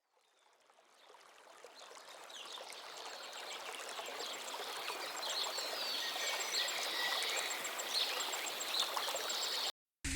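Outdoor ambience fading in over the first two seconds: a steady rushing hiss with small birds chirping over it. It cuts off abruptly shortly before the end.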